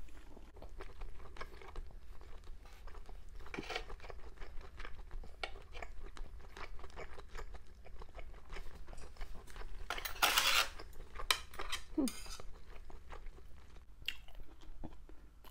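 Close-up chewing of a mouthful of fish roe stew: a steady stream of small wet mouth clicks, with one louder mouth sound about ten seconds in. Near the end, metal chopsticks clink against the pot.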